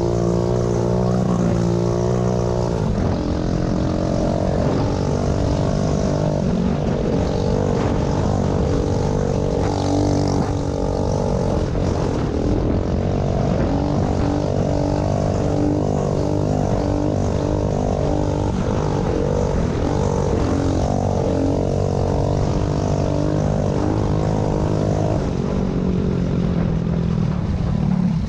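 Small vintage pit bike engine running under load, its pitch rising and falling as the throttle is worked, with noticeable shifts in pitch about three seconds in and near the end.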